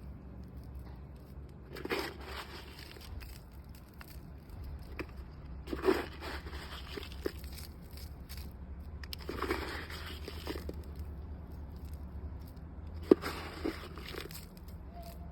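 Rustling and crunching handling noises in four short bursts, with a few sharp clicks, the loudest near the end, over a steady low rumble.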